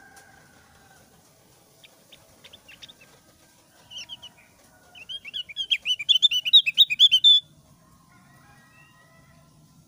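Opior jawa (Javan grey-throated white-eye) singing: a few faint notes, a short burst of chirps about four seconds in, then a fast run of loud, high chirps lasting about two and a half seconds that cuts off suddenly.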